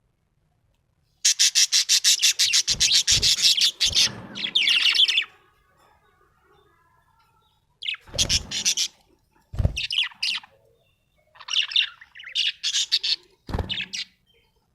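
Budgerigar chirping in bursts of fast chatter: a run of rapid chirps lasting about four seconds, a pause, then several shorter bursts. A few brief low thumps come in among the chirps.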